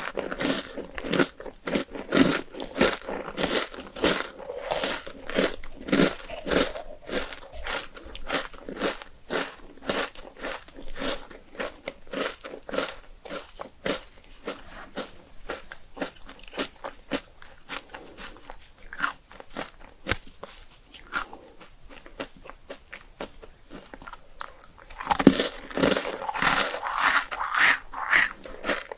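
Close-miked crunching and chewing of crisp rice cakes: a rapid, crackly run of bites and chews, busiest at the start and again near the end.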